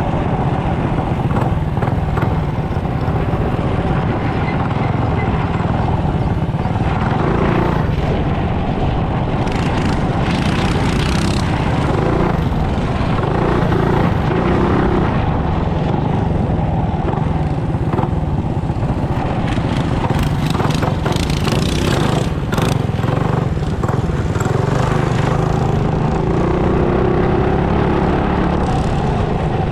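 Mini bike's small single-cylinder engine running steadily under way, the rider riding it continuously. A few stretches of rougher, hissier noise come in around the middle of the ride.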